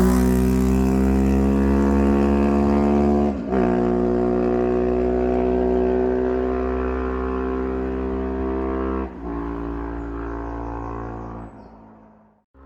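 KTM 390 Duke's single-cylinder engine running at steady revs, its pitch easing slightly lower over time, with brief breaks about three and a half and nine seconds in. It fades away near the end.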